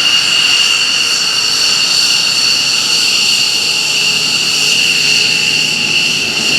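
F-15C Eagle's twin Pratt & Whitney F100 turbofan engines running on a pass: a steady loud jet noise with high whining tones.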